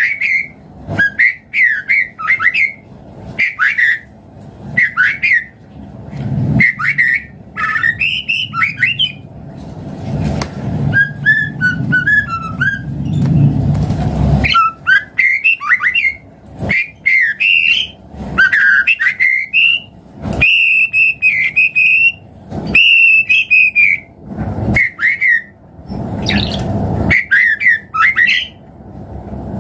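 White-rumped shama (murai batu) singing: loud, varied whistled phrases in quick succession, with a few long held whistles after about 20 seconds.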